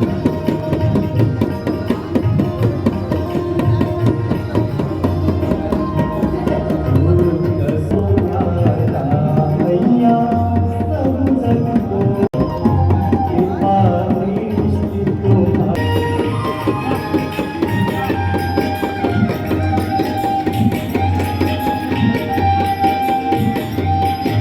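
Hindu devotional aarti music with tabla drumming and singing, a dense steady rhythm under a moving melody. The sound drops out for an instant about halfway.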